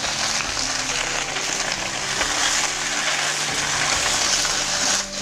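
Sliced cabbage and carrot sizzling in hot oil as they are stir-fried in a wok and turned with a wooden spatula; a steady sizzle that dips briefly near the end.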